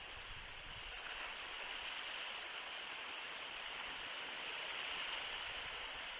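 A steady, even rushing hiss of outdoor ambience picked up by the nest camera's microphone, swelling a little in the middle, with no distinct calls or knocks.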